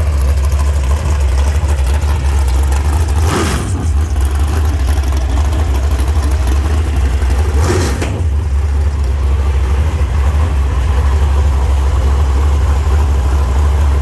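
Race engine running at a loud, steady idle, blipped twice, about three and a half seconds in and again near eight seconds, its guide-plate problem just corrected.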